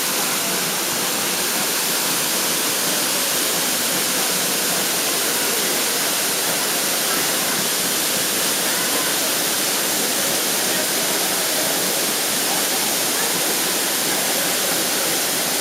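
Waterfall's rushing water, a steady, unbroken hiss.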